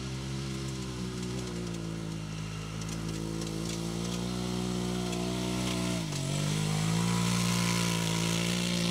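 Off-road racing vehicle's engine running hard at steady revs, with a sudden drop in revs about six seconds in before it climbs again.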